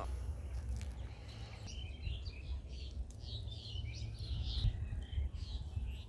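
Birds chirping in a quick run of short calls from about two seconds in until near the end, over a steady low rumble.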